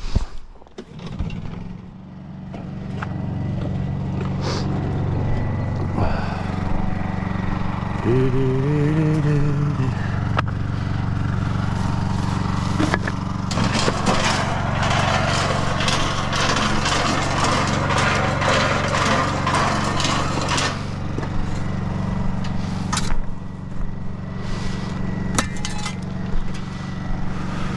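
A small gasoline engine starts up about a second in and runs steadily, with a loud hissing rush over it from about 14 to 21 seconds in.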